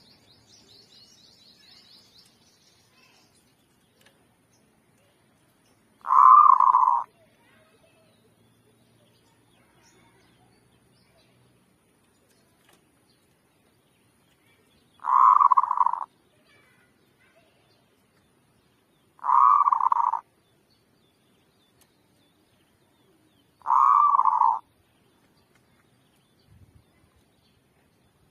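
Zebra dove (merbuk) cooing: four loud phrases about a second long each, spaced several seconds apart, the first about six seconds in. Faint high chirping from another bird at the start.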